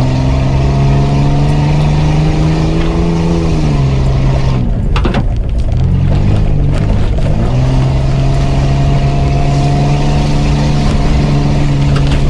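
4x4 off-roader's engine pulling hard, heard from inside the cab. Its note rises slowly, then falls away as the throttle is lifted about three and a half seconds in. A few sharp knocks and rattles from the body over the ruts follow, then the engine picks up and pulls steadily again.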